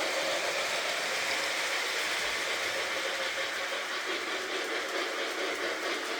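Model train running along its track: a steady whir of the locomotive's electric motor and wheels on the rails.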